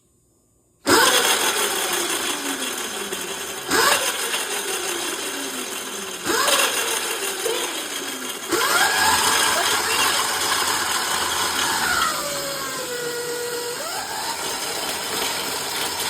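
Electric dirt bike ridden on a top-speed test: its motor whine slides down and up in pitch as the speed changes, under heavy wind noise on the microphone. It starts suddenly about a second in and jumps in loudness several times.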